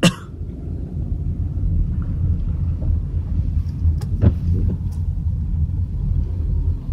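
Steady low rumble of a car heard from inside the cabin while driving, with a faint click or two about four seconds in.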